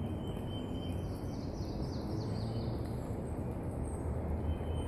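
A bird chirping a quick run of short falling notes about a second in, over a steady low outdoor rumble.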